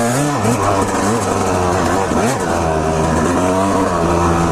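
Two-stroke dirt bike engine being ridden, its revs rising and falling several times under the throttle, then holding a steadier pitch near the end.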